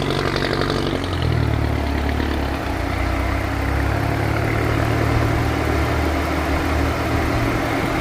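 A car engine idling steadily with a low hum whose pitch shifts slightly about a second in.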